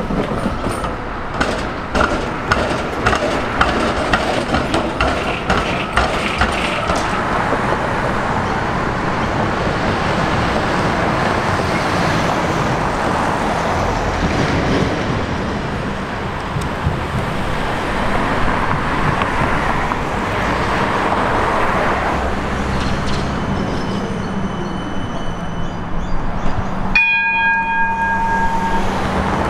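Metro Trains Melbourne X'trapolis electric suburban train passing, its wheels clattering over rail joints about twice a second for the first several seconds, then a steady running rumble. Near the end the sound breaks off abruptly and a few steady high tones follow.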